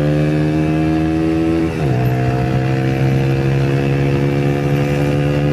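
Yamaha YBR 125's single-cylinder four-stroke engine pulling at high revs, its pitch climbing slowly. About two seconds in the pitch drops sharply as the rider shifts up a gear, then it climbs again under full throttle.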